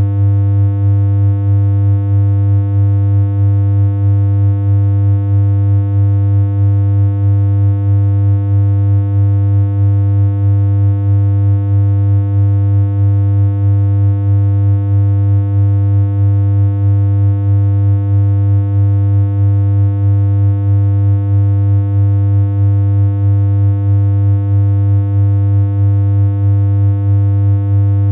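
Continuous synthesized electronic hum: one steady low tone with a stack of buzzy overtones, unchanging in pitch, with a slight regular waver in loudness.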